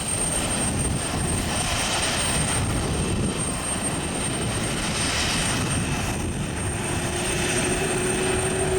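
Jet airliner engines running steadily: an even rushing noise with a thin high whine.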